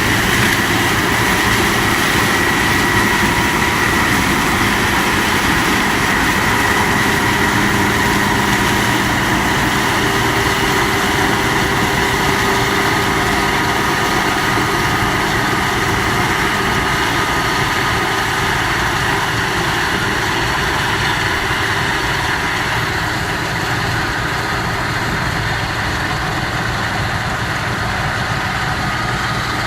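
John Deere 9660 STS combine running steadily while harvesting corn: a constant engine drone with steady high-pitched whines from the machinery over it.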